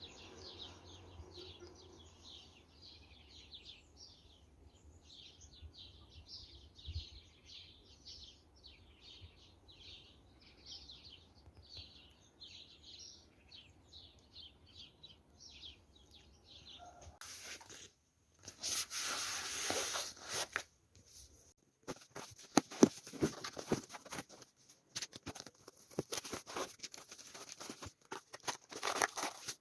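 Faint writing sounds: short quick scratching strokes, about two a second. A louder rustle comes about two-thirds of the way in, then denser tapping and scratching strokes to the end.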